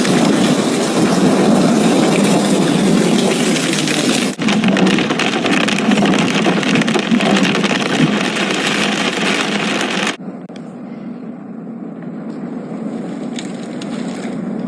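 Hail pelting hard surfaces: a loud, dense clatter of many small impacts, dropping abruptly to a much quieter, thinner patter about ten seconds in.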